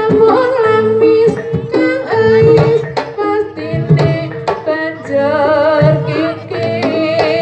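Javanese jaranan (kuda lumping) music: a woman singing with a wavering pitch over hand-drum strokes and held instrumental notes.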